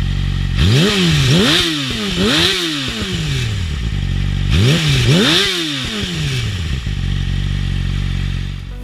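Yamaha R6 inline-four sport bike fitted with a CPS titanium exhaust, blipped from idle in quick revs: three in a row, then two more a couple of seconds later, settling back to a steady idle between them.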